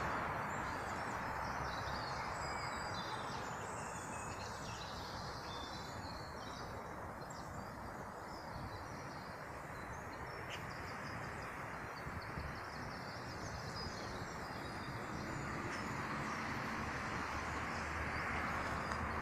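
Small birds chirping and singing over a steady outdoor background hiss.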